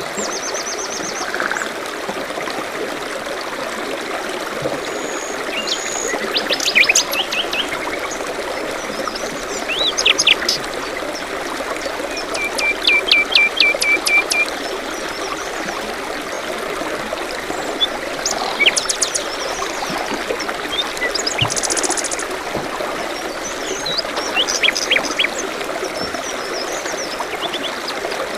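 A stream trickling steadily, with several small songbirds chirping over it in short bursts of quick, high repeated notes, one run of about a dozen notes halfway through.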